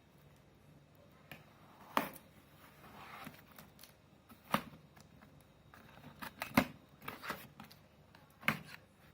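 Cardboard packaging of a toaster being opened and handled: scattered sharp clicks and knocks, about four louder ones, with some soft rustling between.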